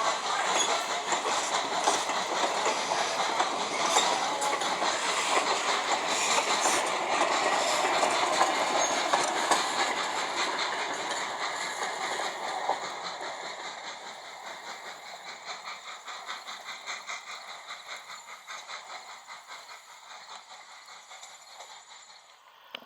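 Train hauled by an H.K. Porter 0-6-0T steam tank locomotive running past, with a rhythmic clatter of wheels on the rails. It fades steadily over the second half as it moves away.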